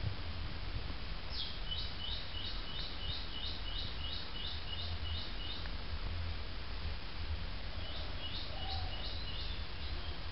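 A small bird calling with a run of short, high notes that each drop in pitch, about three a second for several seconds, then a shorter run near the end, over a steady low hum.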